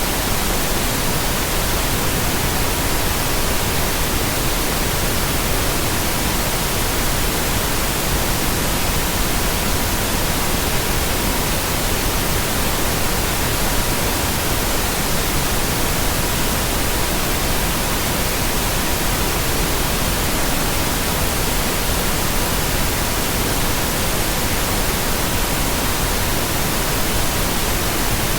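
Steady pink noise, an even hiss across the whole range, with a faint steady tone near 963 Hz running beneath it, unchanging throughout.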